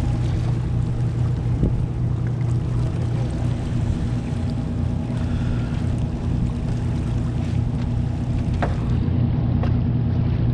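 A boat's motor running steadily with a low, even hum, with a few faint clicks and knocks on board.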